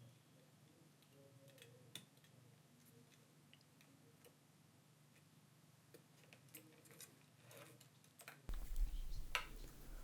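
Faint, scattered small clicks and taps of tools and flex-cable connectors being pressed onto a smartphone's board. A low hum comes in about eight and a half seconds in, with a few louder clicks.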